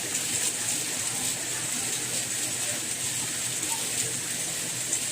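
Steady rain: an even hiss, strongest in the high range.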